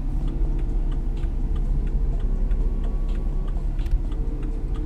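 Turn-signal indicator ticking at a steady, even pace inside a BMW 435i's cabin, over the steady low drone of the engine and road while driving.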